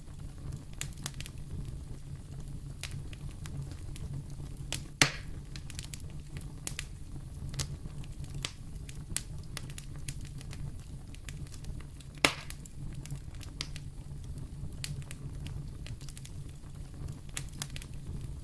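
Fire burning in a fireplace: a steady low rumble with scattered crackles and two loud pops, about five and twelve seconds in.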